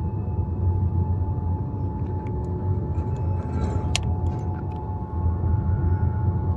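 Steady road and tyre rumble from a Tesla Model Y electric car driving along, with a sharp click about four seconds in.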